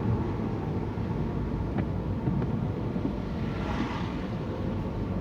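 Steady car engine and tyre noise heard from inside the cabin while driving.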